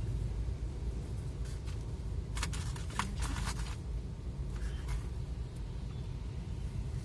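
A vehicle driving in heavy rain: a steady low road rumble, with a cluster of short hissing bursts about two and a half to three and a half seconds in.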